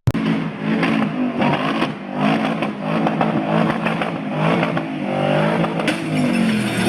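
Vehicle engine running, its pitch rising and falling as it revs, over road noise, with a sharp click near the end.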